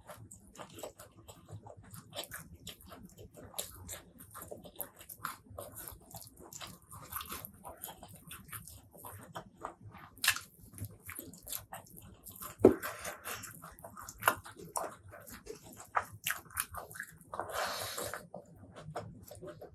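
A person chewing and biting food up close: irregular wet mouth clicks and crunches, with one sharper, louder crunch about two-thirds of the way through.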